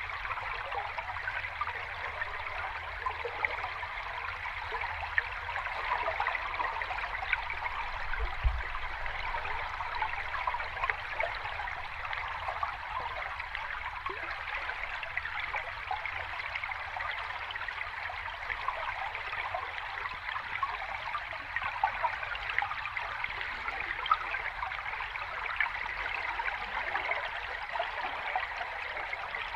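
Small cascade of running water, flowing and splashing steadily with fine trickling detail. There is a brief low bump about eight seconds in.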